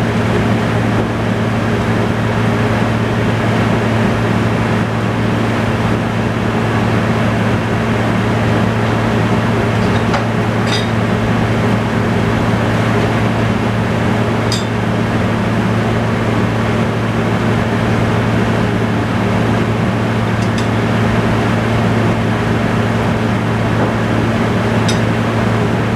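Tractor engine running at a steady speed, a loud even drone that never changes. A few light clinks, at roughly four-second intervals or more, are heard over it.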